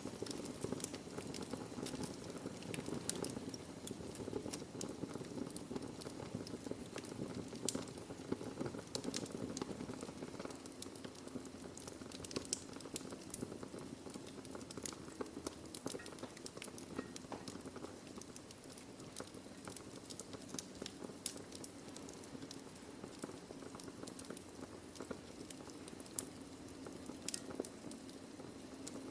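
Wood fire burning in a fireplace: a steady low rush of flame with scattered sharp crackles and pops from the burning logs, a few pops standing out louder.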